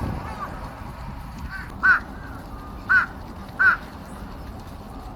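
Crows cawing: a faint caw near the start, then three loud, short caws about a second apart.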